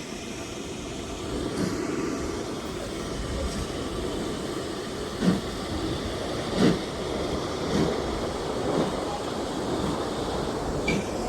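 Heritage railway train running: a steady rumble with short knocks every one to three seconds.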